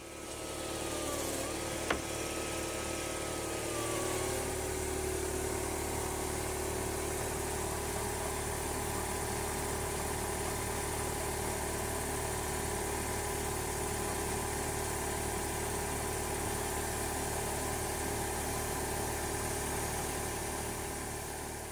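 A steady mechanical motor hum. A few gliding tones settle in the first seconds, and there is a single click about two seconds in.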